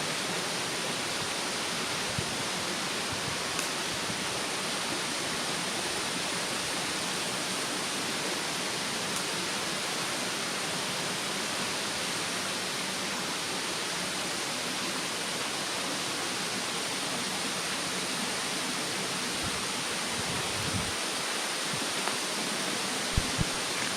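Steady rushing of a mountain stream, with a few faint crackles from a wood fire and two sharper pops near the end.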